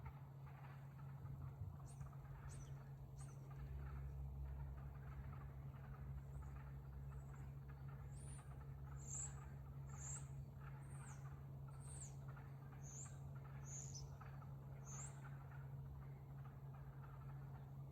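A bird calling repeatedly in short, high chirps, a few at first and then about one a second for several seconds, over a steady low hum.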